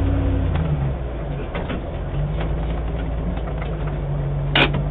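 Land Rover Defender's engine running at low revs while crawling over rock, heard from inside the cabin, its note dropping about half a second in. A few light knocks and rattles, and a brief sharp squeak near the end.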